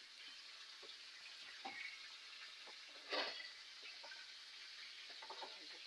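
Flour-coated chicken frying in hot oil in a pot: a steady, faint sizzle with scattered small crackles, and one brief louder sound about three seconds in.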